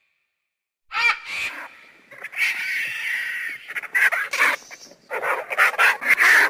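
A bird calling repeatedly: a first call about a second in, a longer call near the middle, and a quick run of calls near the end.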